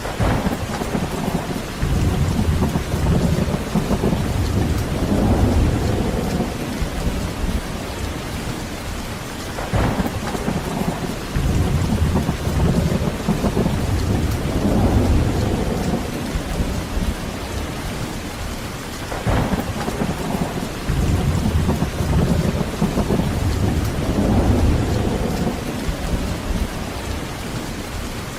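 Heavy rain falling steadily, with rolling thunder. Three long low rumbles come about every ten seconds, each swelling for several seconds and then dying back into the rain.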